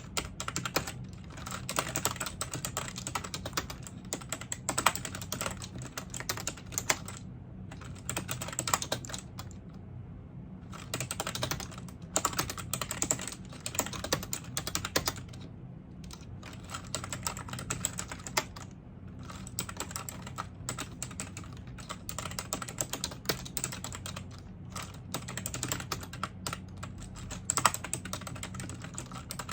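Continuous typing on a computer keyboard: rapid runs of key clicks with brief pauses between bursts. A faint steady low hum lies underneath.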